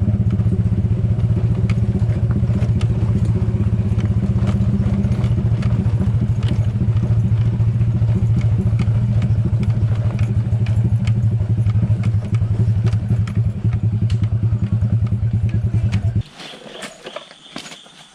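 Motor scooter engine running steadily, then stopping suddenly near the end, after which a few light clicks and clatter are heard.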